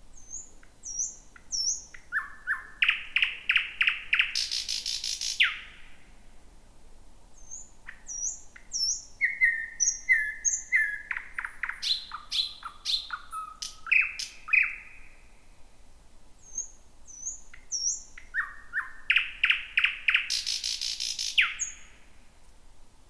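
Thrush nightingale singing at night. It gives three loud song phrases: the first and last run a series of quick repeated notes into a loud rattle, and the middle one is a more varied run of whistles and clicks. Soft, high, short whistled notes come in the pauses between the phrases.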